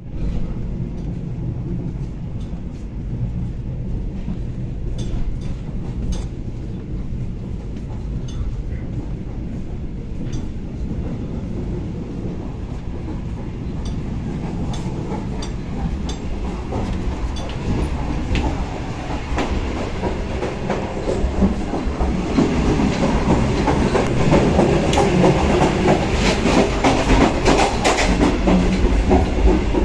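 Moving passenger train heard from inside a sleeper coach: a steady running rumble with scattered sharp clicks of wheels and couplings. It grows louder from about twenty seconds in.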